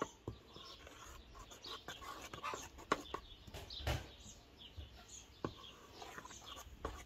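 Small birds chirping in short, repeated calls, with a few sharp clicks of a metal spoon against an enamel bowl as flour is stirred.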